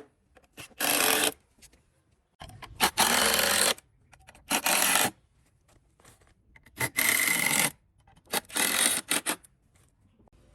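Wood being worked by hand in long rubbing, scraping strokes. There are five strokes of up to about a second and a half each, with short pauses between them.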